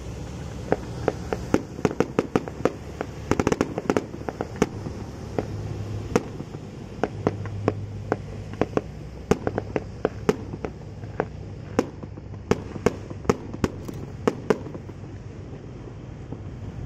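Firecrackers going off in irregular sharp cracks, dense in runs and then thinning out, stopping about fifteen seconds in, over a steady low hum.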